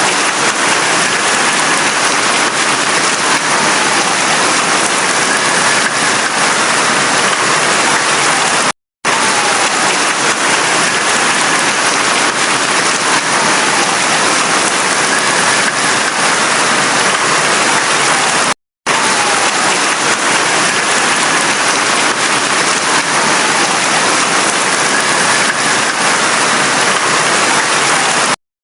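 Heavy rain falling steadily, an even hiss, cutting out to silence for a split second about every ten seconds where the looped recording joins.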